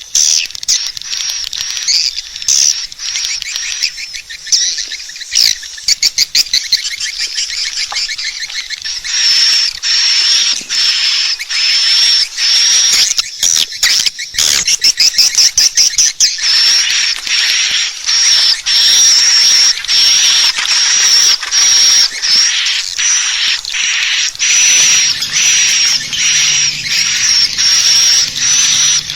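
Swiftlet lure call: high, rapid twittering chirps of swiftlets, at first a jumbled chatter, then from about a third of the way in an even, repeating series of chirps. A faint low hum joins near the end.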